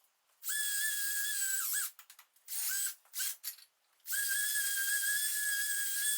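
Power tool spinning a wire wheel against a motorcycle exhaust to scrub off loose rust and paint. It makes a steady high-pitched whine in three runs: one starting about half a second in, a short one near three seconds, and a longer one starting after four seconds. The pitch dips just before the first run stops.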